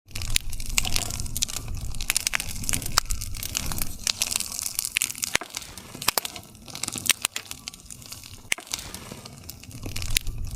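Campfire burning: wood crackling with frequent sharp pops and snaps over a low rumble of the flames.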